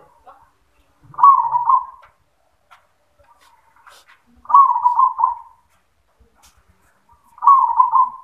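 Zebra dove (perkutut) cooing its rolling song, three phrases roughly three seconds apart, each lasting about a second.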